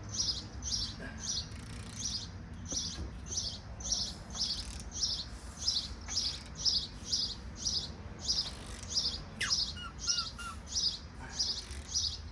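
A small bird chirping over and over at an even pace, about two to three short high chirps a second, with a couple of falling whistles near the end.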